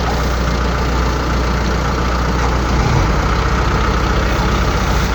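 Heavy diesel farm machinery engine running loud and steady. A little under three seconds in, its low rumble changes to a fast, even pulsing.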